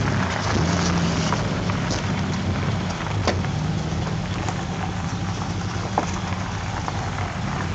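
Car engines running at low revs, a low steady engine note that shifts slightly in pitch, as cars drive off slowly across a gravel car park. A few sharp clicks of gravel come from under the tyres.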